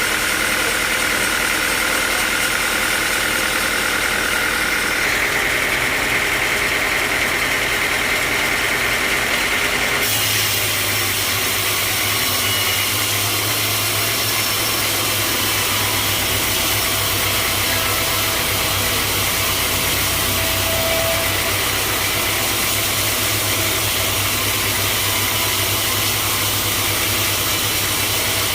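Sawmill machinery running steadily with engine noise and some rattle. The sound changes abruptly about ten seconds in, after which a deeper steady hum dominates.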